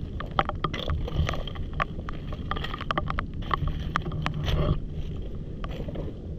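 Wind buffeting the microphone as a low rumble, with many irregular sharp clicks and knocks scattered through it.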